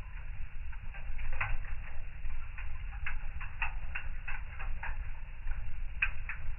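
Fire in a fireplace crackling: irregular snaps and pops, several a second, over a low steady rumble.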